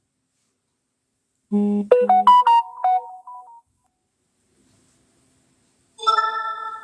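Two short electronic phone alert tones: a quick run of notes stepping upward about a second and a half in, then a ringing chime near the end that fades away.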